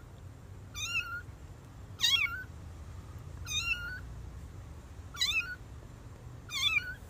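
A cat meowing over and over: five short, high meows, each rising at the end, about one every second and a half.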